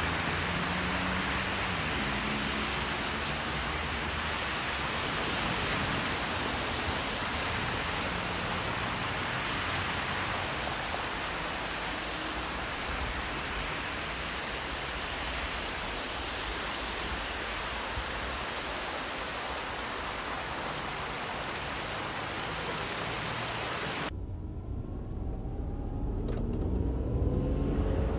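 Steady loud hiss of heavy rain and running water, with a vehicle engine underneath. About 24 seconds in, the hiss cuts off abruptly, leaving a vehicle engine whose pitch rises near the end.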